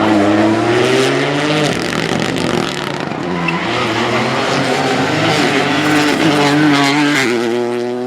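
Rally car engine at full throttle, its pitch climbing and then dropping sharply at each gear change, several times over.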